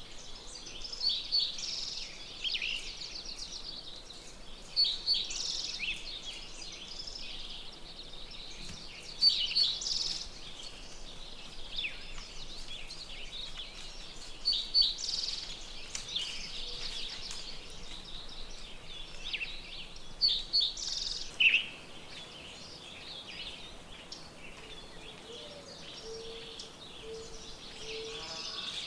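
Wild songbirds singing: one bird repeats a loud, high, rapid song phrase about every five seconds over steady chirping from other birds. A short run of low notes comes in near the end.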